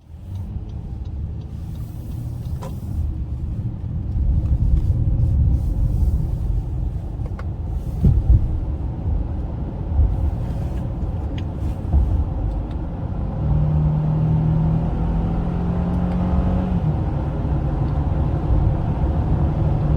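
Cabin sound of a 2021 Honda Ridgeline pickup on the road: tyre and road noise with its 3.5-litre V6 running underneath. The noise gets louder about four seconds in, with a few short thumps around the middle. A steady low engine drone sets in for the last six seconds.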